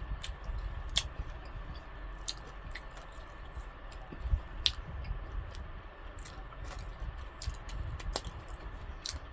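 Close-up chewing of KFC fried chicken: wet mouth sounds with irregular sharp smacks and clicks every second or so.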